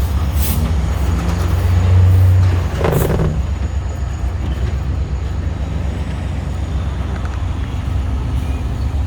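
Steady low engine rumble that swells slightly about two seconds in, with a short hiss-like burst about three seconds in.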